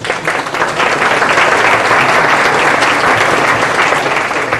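Audience applauding in a hall, dense clapping that swells just after it begins and dies away near the end.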